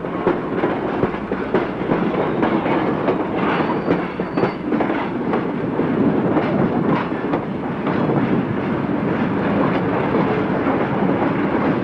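Freight train cars rolling through a rail yard: steel wheels clicking and clanking over rail joints above a steady rumble, heard through an old Super 8 film soundtrack.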